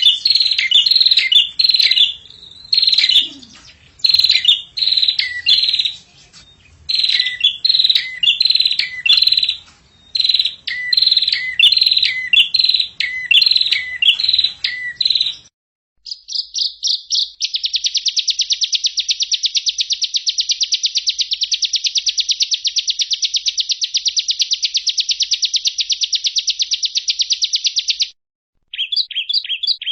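Songbird masteran (training song) playing. For about fifteen seconds there are repeated chirping phrases, about two a second, each ending in a falling note. After a short break comes a fast, even trill lasting about ten seconds, then quick repeated short notes.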